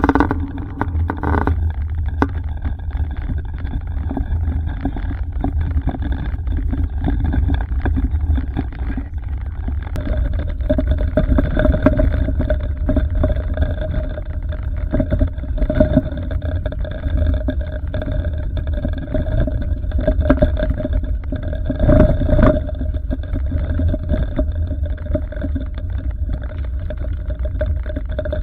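Road noise of a car being driven: a steady low rumble of tyres and engine, with a steady hum joining about a third of the way in.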